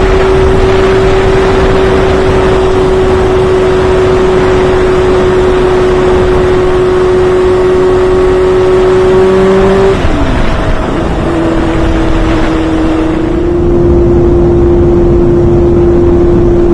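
Honda CBR600 F4i inline-four engine running at steady high revs with heavy wind rush. About ten seconds in the engine pitch dips briefly, then settles steady again a little lower.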